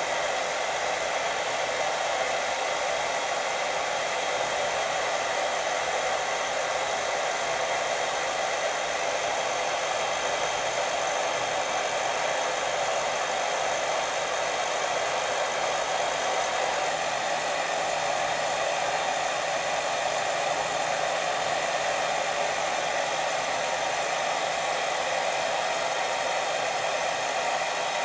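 Steady white noise for sleep: an even, unbroken hiss that does not change.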